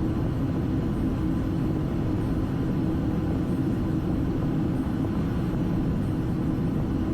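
Steady cockpit noise of a Boeing 757-200 freighter in its climb after takeoff: a constant rumble of engines and airflow with a low, even hum.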